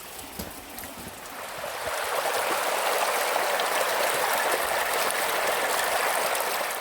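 Running water splashing steadily, growing louder about two seconds in and fading near the end.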